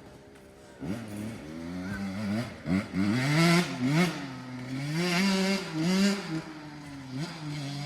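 Small dirt bike engine revving up and down under the throttle, its pitch rising and falling, loudest in the middle few seconds.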